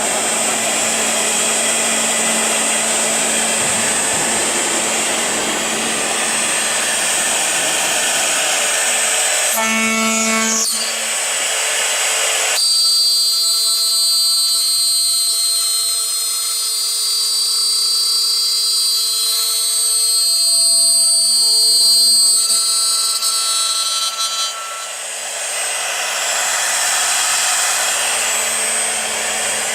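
Aluminium-profile CNC drilling-milling machine at work, its spindle cutting with a dense hissing noise over a steady hum. From a little under halfway a steady high whine of several tones takes over for about twelve seconds, and the hissing noise returns near the end.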